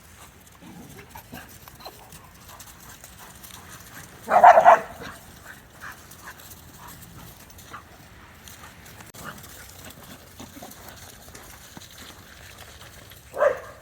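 A dog barks loudly about four seconds in and once more near the end.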